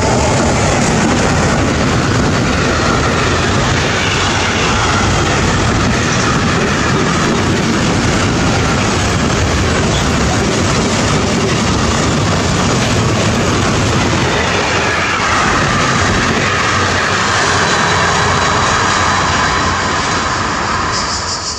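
Freight train passing through a station at speed: a loud, steady roar of wagon wheels on the rails, with faint wavering ringing in the wheel noise.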